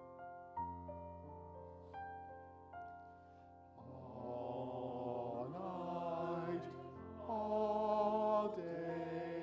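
Piano playing slow, quiet notes; about four seconds in, a singing voice comes in with long, held notes over the piano accompaniment, and the music grows louder.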